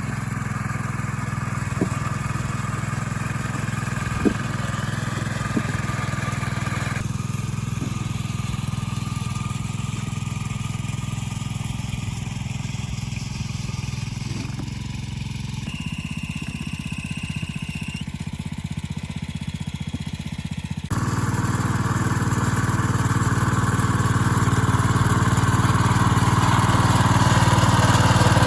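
An engine running steadily, its sound changing abruptly several times, with a few short knocks in the first seconds.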